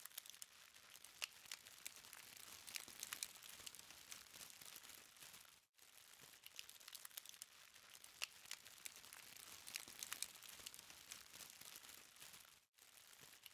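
Charcoal fire crackling softly: a steady scatter of small sharp pops and ticks over a faint hiss. The sound drops out for an instant twice, about six seconds in and near the end.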